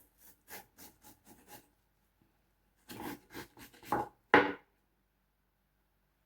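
Knife cutting through watermelon against a cutting board: a quick run of short strokes, a pause, then a few heavier cuts, the last the loudest.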